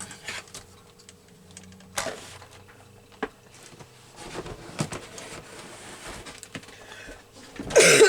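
Scattered light clicks, taps and rustles of paper being handled on a paper trimmer, with a few sharper knocks. A cough near the end.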